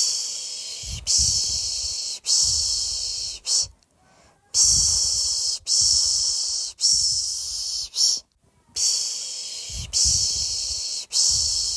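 A person shushing to lull a baby to sleep: long 'shhh' hisses about a second each, in groups of three with a short breath-like pause between groups.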